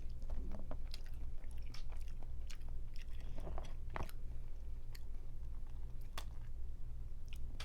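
Close-up eating sounds: chewing and biting with irregular crunches and cracks of crawfish shells, over a steady low hum.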